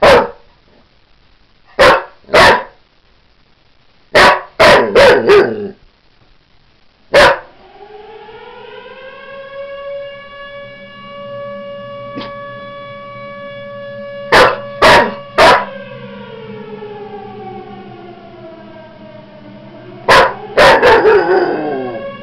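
A dog barks in quick groups of two to four, loud and sharp. About seven seconds in a siren winds up and holds a steady pitch; the dog barks three times over it, then the siren winds down and rises again near the end amid more barking.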